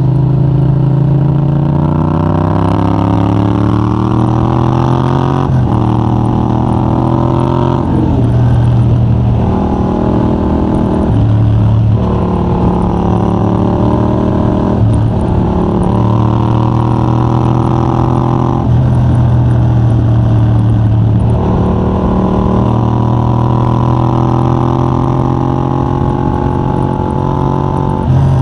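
Yamaha MT-07's 689 cc parallel-twin engine through a de-catted Mivv GP Pro titanium exhaust with a 35 mm dB killer, ridden hard. The engine note climbs under acceleration and breaks off with a drop in pitch at each gear change, many times over.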